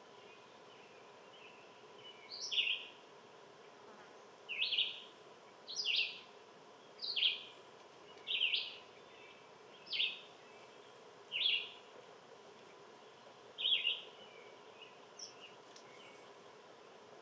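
A bird calling over and over: about eight short, scratchy notes, roughly one every second and a half, with a couple of fainter notes near the end.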